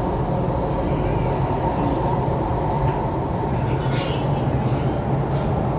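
MTR East Rail Line R-Train electric multiple unit running along the line: a steady rumble of wheels and running gear.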